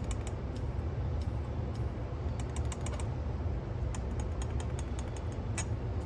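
Irregular light clicks and taps of hands and small tools working on an opened cassette deck's motor, over a steady low hum.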